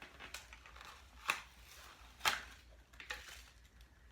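A small blind-bag toy package being handled and opened: light crinkling and clicks, with two sharp snaps about a second apart.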